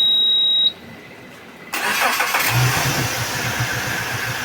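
Suzuki DF150 four-stroke outboard being started: a steady high electronic beep from its warning buzzer cuts off under a second in, then about a second later the starter cranks, the engine catches and settles into an even running.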